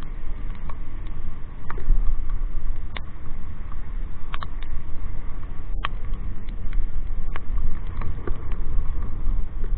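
Heavy wind rumble on the microphone of a riding motorcycle, with scattered sharp ticks at irregular intervals of raindrops hitting near the microphone in a downpour.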